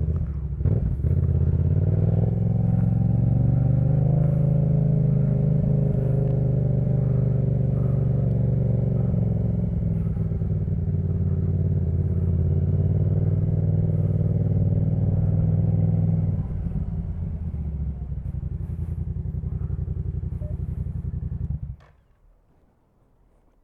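Yamaha MT-07 parallel-twin engine running through a Jeskap K4 full aftermarket exhaust, its pitch rising a little early and then holding steady. About two-thirds of the way through it drops to a lower, quieter note, then stops abruptly shortly before the end.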